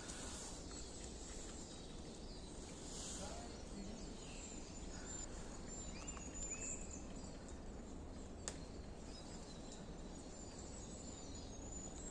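Faint forest ambience: small birds chirping faintly and high over a low steady rumble, with a single sharp click about eight seconds in.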